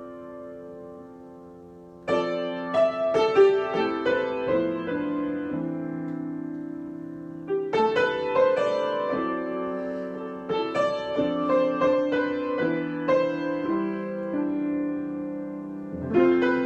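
Solo piano improvisation. A chord dies away, then phrases of single notes over held chords enter about two seconds in and again at about eight seconds, and a fresh chord is struck near the end.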